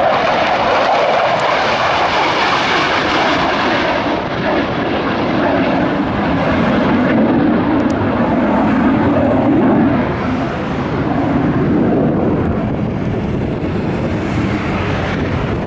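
Military fighter jet taking off under full engine power: a loud, continuous jet roar whose pitch drops lower partway through as the aircraft goes by.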